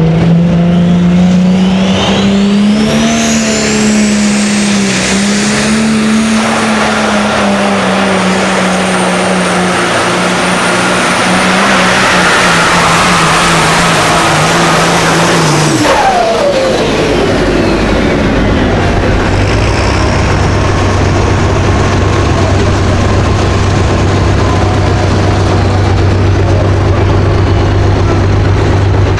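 Pulling tractor's engine running flat out, with a high whine that climbs over the first few seconds and then holds. About sixteen seconds in the throttle is cut, the whine falls away and the engine settles to a low, steady idle.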